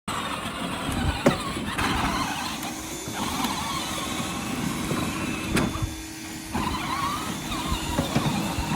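Electric motor of a kids' ride-on toy tractor whining as it drives, with its pitch rising and falling, a steady hum, and a couple of sharp knocks.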